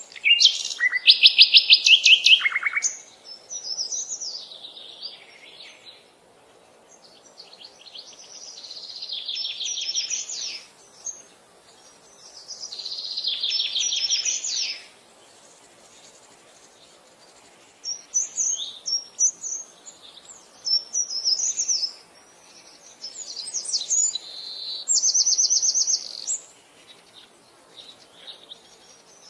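Songbirds singing: a series of high, rapid trilled phrases mixed with chirps, repeating every few seconds with short pauses between. The loudest trill comes just after the start.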